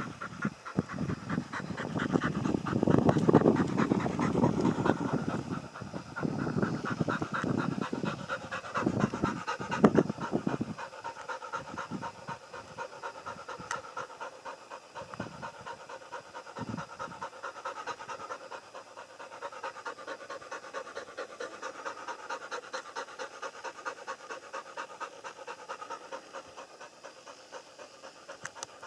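Pigs snuffling, grunting and chewing rhythmically while feeding. The sound is louder and deeper for the first ten seconds or so, then softer.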